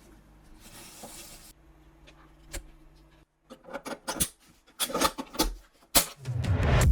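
Faint rubbing, then a single click and, a little past halfway, a quick run of sharp clicks and knocks from small parts being handled during restoration work. Music starts to swell in just before the end.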